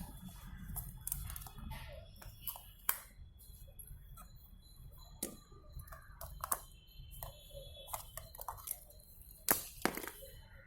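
Scattered small clicks, knocks and clinks of metal parts being handled as a microwave oven's fan motor is taken apart for greasing, the loudest knock near the end.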